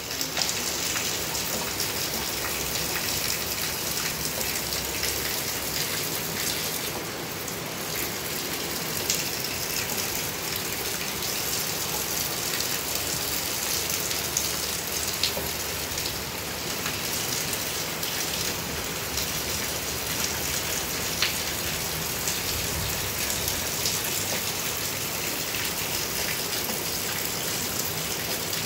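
Heavy rain falling steadily, a dense hiss with many small drop ticks through it.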